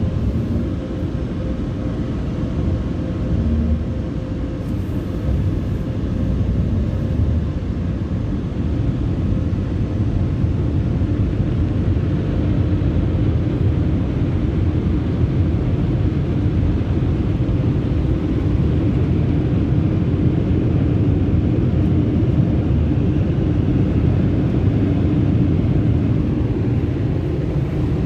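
Belanger car wash air dryers blowing on the car, heard from inside the cabin as a loud, steady rumbling rush of air.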